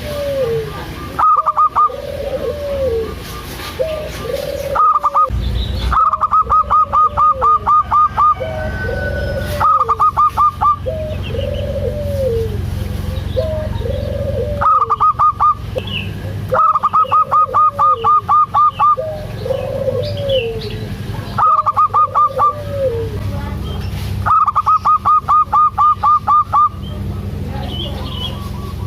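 Zebra doves (perkutut) calling: several loud runs of rapid staccato cooing notes, each lasting about half a second to two and a half seconds, over a softer, lower coo repeated about every second and a half. A low steady hum sits under the middle of it.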